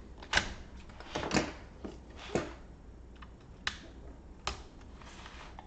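Irregular sharp clicks and light knocks of plastic laptop parts being handled and pressed together, about seven in all, spaced unevenly.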